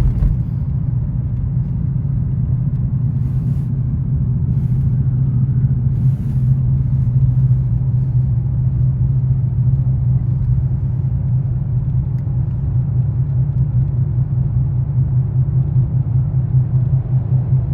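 Vehicle driving at steady speed: a continuous low engine and road drone.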